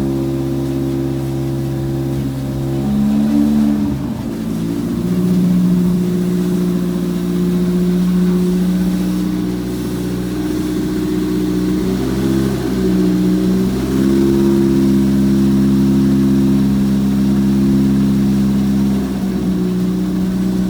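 Toyota 1ZZ 1.8-litre four-cylinder petrol engine running on a test stand, its speed shifting up and down a few times, around four seconds in and again around twelve to fourteen seconds in.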